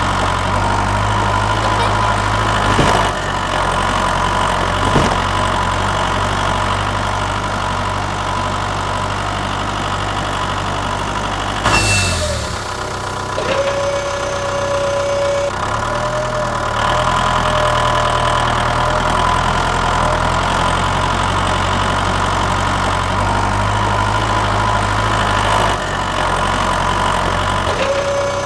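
An engine running steadily at idle. About twelve seconds in there is a short falling sweep, followed by a steady mid-pitched whine that comes and goes over the engine.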